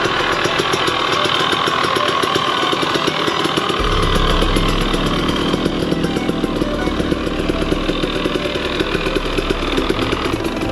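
Husqvarna TE300 TBI two-stroke dirt bike engine running with a dense, rapid firing rhythm at a fairly steady level.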